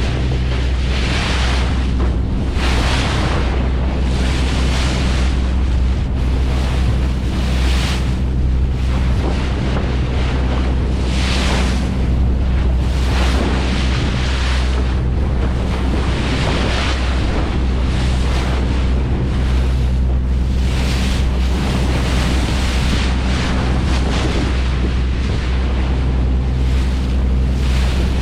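A fishing boat's engine running at a steady hum, with washes of wave and wind noise swelling and fading every second or two.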